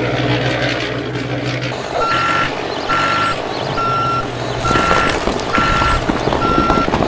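Truck engine running, then a reversing alarm starts about two seconds in, beeping steadily about once a second, six beeps in all.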